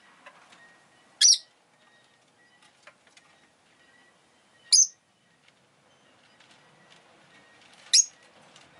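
Rosy-faced lovebird giving three short, sharp, high-pitched chirps, about three and a half seconds apart, with faint clicks in between.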